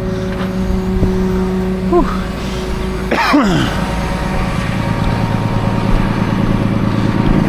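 Tow truck's engine running steadily with a low, even hum.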